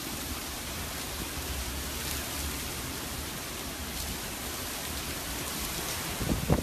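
Heavy hurricane rain pouring down in a steady hiss, with a low wind rumble on the microphone. A few short thumps come near the end.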